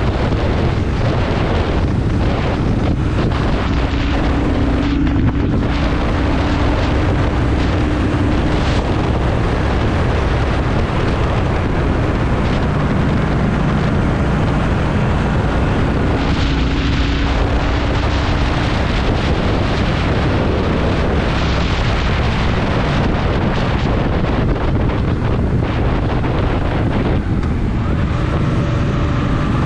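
Honda Shadow VT750's 745 cc V-twin engine running on a city ride, mixed with wind buffeting the microphone. The level stays steady, with no sharp events.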